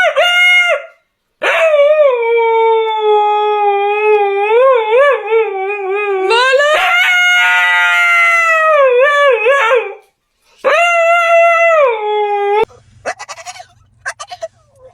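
A dog howling in three long, wavering howls, the pitch sliding up and down, with short breaks between them. The howling stops suddenly near the end, leaving a low steady hum and a few faint clicks.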